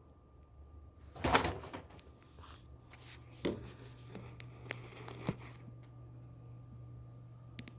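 A rattling knock about a second in, then a few sharp clicks and taps, over a steady low hum.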